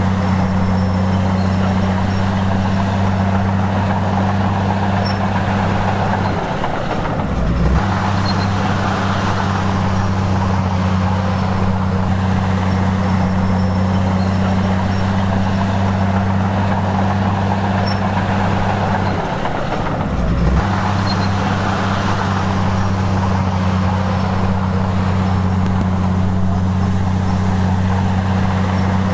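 Komatsu bulldozer's diesel engine running steadily with a deep, even hum. The sound dips and changes briefly twice, about seven seconds in and again about twenty seconds in.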